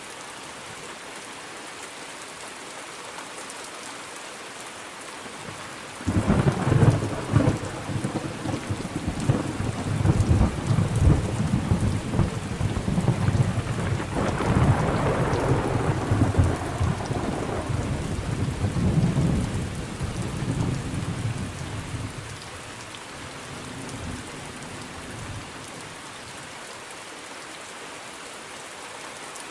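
Steady rain falling, broken about six seconds in by a sudden crack of thunder that rolls and rumbles for some fifteen seconds, then fades back to the rain alone.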